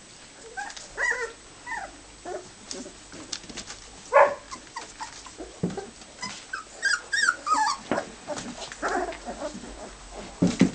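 Four-week-old golden retriever puppies whining and squeaking in many short, high calls that rise and fall, with small clicks and knocks among them.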